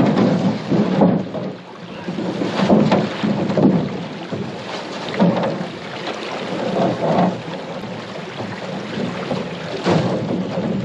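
Paddling a 17-foot Alumicraft aluminum canoe: irregular paddle strokes sloshing through the water every second or two, with short knocks among them, over a steady noisy wash.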